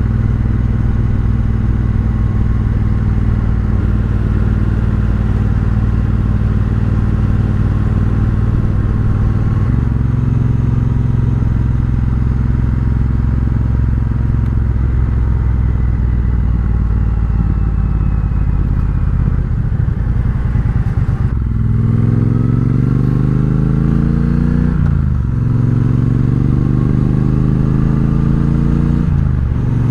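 Triumph Bobber's parallel-twin engine through a Vance & Hines exhaust, running at steady cruising revs, then pulling hard with the pitch climbing and dropping sharply twice at upshifts in the last third.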